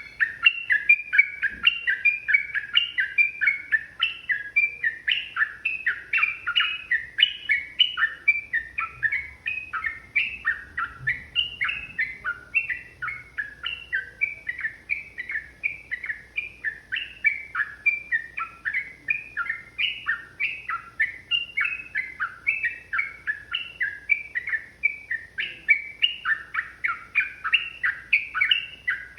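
Yellow-vented bulbul singing a long, unbroken run of quick, bubbly whistled phrases, one after another with no pause: the rapid continuous 'ropel' song that bird keepers play to set caged bulbuls singing.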